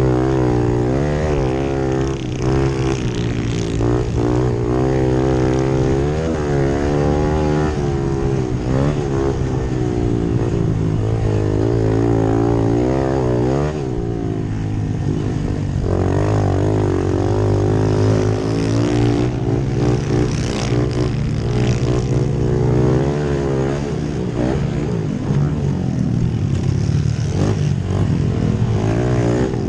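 Several pit bike engines running at once, their pitch repeatedly rising and falling as the riders work the throttle and shift around the dirt track.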